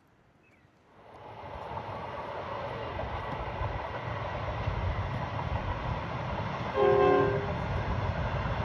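A large vehicle rumbles in and keeps running heavily. About seven seconds in it sounds one short horn blast.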